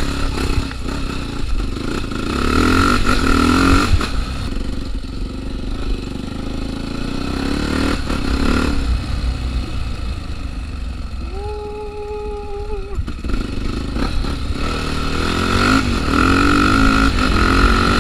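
Trail motorcycle engine running, revving up twice, about two seconds in and again near the end. A steady tone sounds for under two seconds about eleven seconds in.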